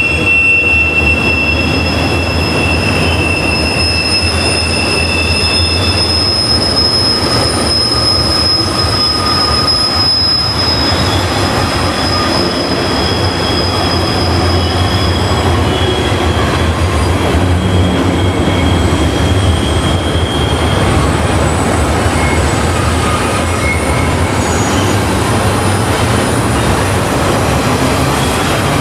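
Freight train passing, its steel wheels squealing in several high, steady tones that come and go over a continuous low rumble of the rolling cars.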